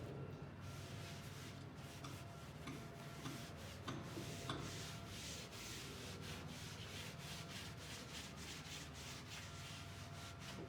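Quick repeated rubbing strokes worked back and forth over a surface during furniture refinishing, growing faster and more even after about four seconds.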